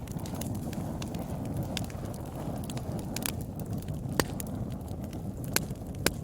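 Wood fire burning in a fireplace: a steady low rush of flames with sharp crackles and pops scattered through it, a few of them standing out loud and snappy.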